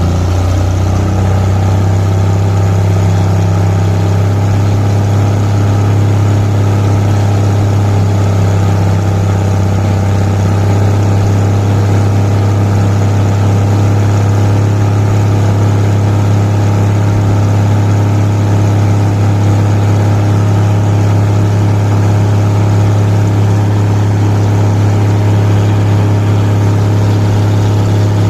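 An engine running steadily at a constant speed, a low even hum that holds unchanged throughout.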